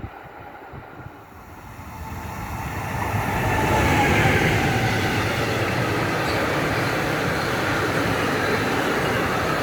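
Freight train hauled by a Press class 145 electric locomotive approaching and passing with car-carrier wagons. It grows louder over the first few seconds, then holds as a steady rolling rumble of wheels on rail.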